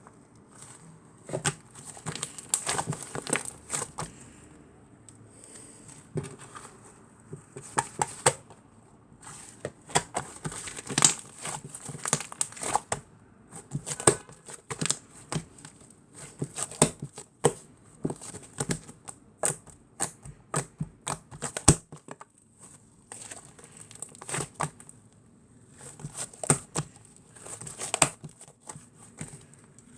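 Irregular crinkling and sharp clicks in quick clusters, with short pauses between them.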